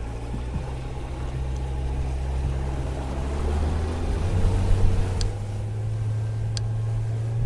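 An engine running steadily with a low, even drone, with a couple of faint short ticks in the second half.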